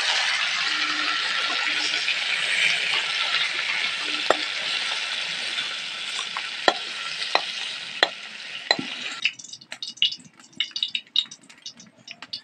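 Chicken pieces sizzling in hot oil in a kadai while a spatula stirs and lifts them out, with a few sharp metal clinks and scrapes against the pan. The sizzle cuts off abruptly about nine seconds in, leaving scattered small crackles.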